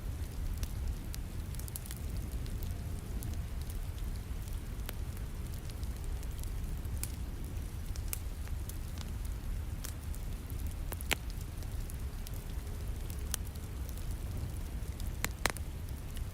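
Wood fire crackling with scattered small pops, two louder ones about 11 and 15 seconds in, over the steady hiss and low rumble of falling rain.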